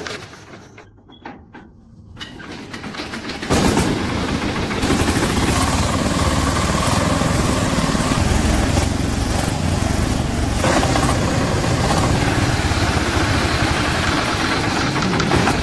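An engine starts about three and a half seconds in and runs steadily and loudly.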